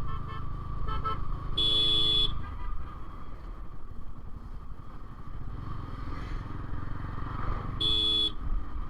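Motorcycle running down the road with steady engine and road rumble. A vehicle horn beeps twice, once about two seconds in and again near the end, each blast well under a second long.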